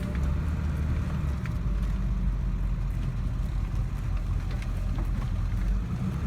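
Steady low rumble of a vehicle driving slowly, heard from inside the cabin.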